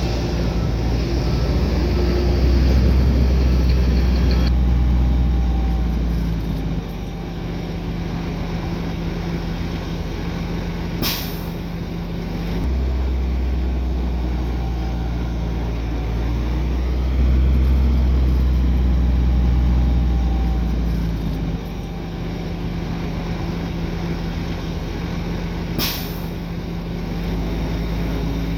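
Heavy diesel engine of earthmoving machinery running and working, its low rumble swelling and easing in long stretches. Two short sharp bursts break in, about eleven seconds in and again near the end.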